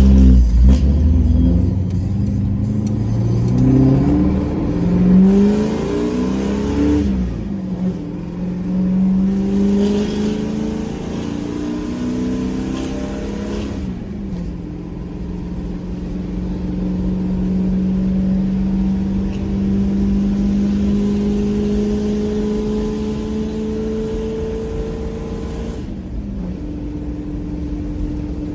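Pickup truck engine pulling through the gears under acceleration: its pitch climbs, then drops at each upshift, about 7, 14 and 26 seconds in.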